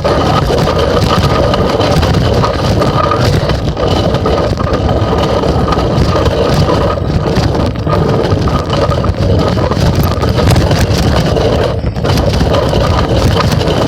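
Phone rattling and jostling in a child's bicycle basket as the bike rides along, with a steady, loud rumble of the wheels and handling noise.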